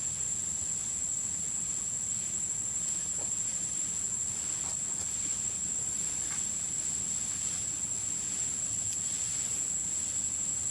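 Steady high-pitched drone of insects, holding one shrill pitch without a break.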